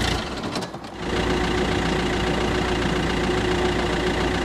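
Iveco Daily's diesel engine idling steadily, back in working order after a CAN-bus wiring fault was repaired. The sound drops out briefly about a quarter second in, then the idle carries on evenly.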